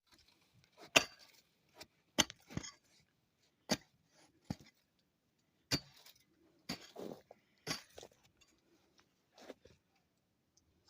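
Pick striking packed, drifted snow and ice about five times, a sharp hit every second or two, with crunching and scraping of the snow between the blows.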